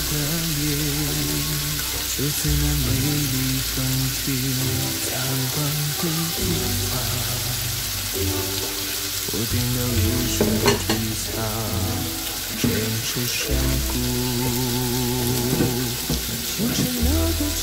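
Chicken pieces and carrot strips frying in oil in a pan, with a steady sizzle. Background music with a slow melody and bass plays throughout.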